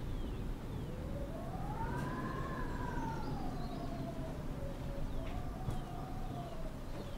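Wind buffeting the microphone with a steady rumble. Over it sounds a slow wailing tone that rises about a second in, peaks, sinks, swells again briefly and tails off.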